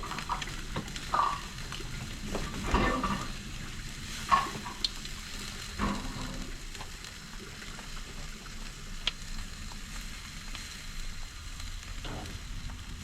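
Jerk chicken legs sizzling on a barbecue grill over a fire, with a few short knocks and clatters in the first half, the loudest about four seconds in.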